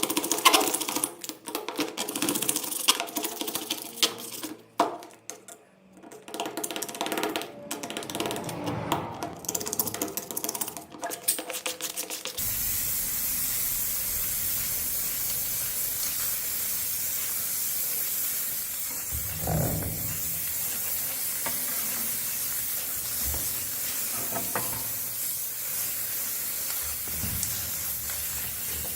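Irregular clicks and taps of hand work for about twelve seconds, then an abrupt switch to a steady hiss with a few faint low knocks.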